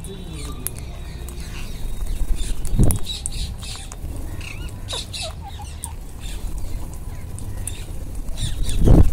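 Wild Indian ringneck parakeets giving scattered short, shrill squawks. A low rumbling noise swells twice, about three seconds in and again near the end.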